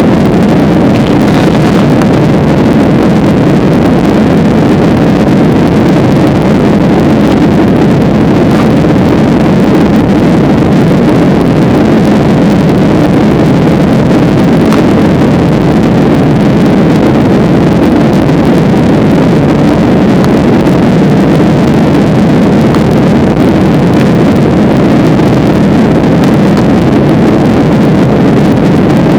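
Passenger plane's engines and airflow heard from inside the cabin: a loud, steady, even noise that does not change.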